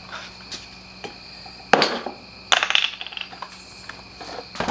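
Hard objects being handled and set down: a sharp knock a little under two seconds in, a short rattling clatter about half a second later, and a few lighter clicks and knocks.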